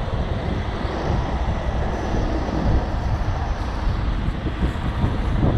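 Heavy truck engine running steadily, a continuous low rumble.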